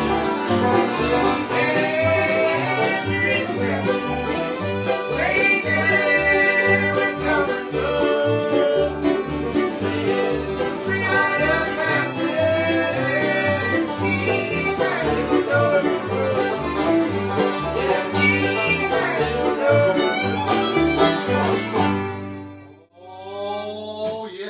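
Bluegrass band jamming with banjo, guitar and fiddle over a steady bass line. The tune ends near the end, and a man's voice starts just after.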